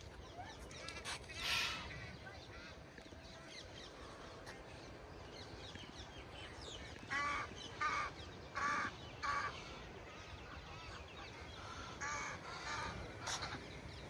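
Bird giving harsh, cawing calls: a run of four about two-thirds of a second apart around the middle, and a few weaker ones near the end, over a steady background hiss.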